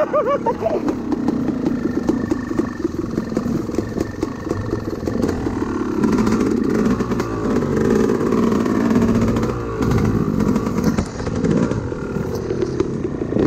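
Dirt bike engine running under load, the revs rising and falling again and again as it rides.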